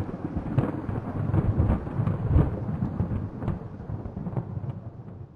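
Low rumbling noise with scattered crackles, storm-like, dying away near the end.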